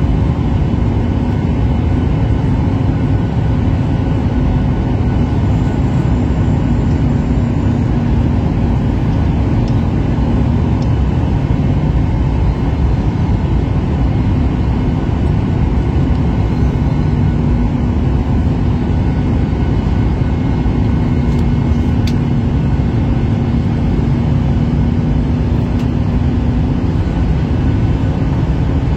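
Steady drone inside an airliner cabin in flight: engine and airflow noise with a constant low hum.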